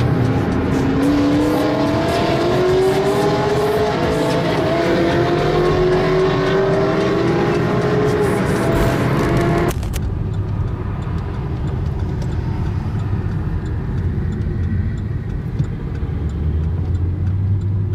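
Race car engines at full throttle, their pitch climbing in repeated sweeps through the gears. About ten seconds in the sound cuts off abruptly to a lower, steadier engine rumble.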